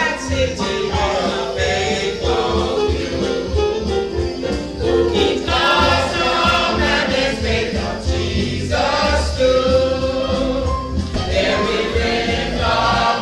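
Choir singing gospel music with instrumental accompaniment and a steady bass.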